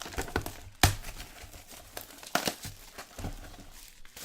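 Plastic wrapping on a trading-card box crinkling and tearing as the box is unwrapped and opened by hand, in irregular crackles with a sharp knock about a second in.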